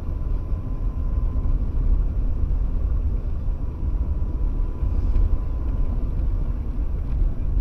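Steady low rumble of a moving vehicle's engine and tyres on the road, heard from inside the cab through a dashboard camera.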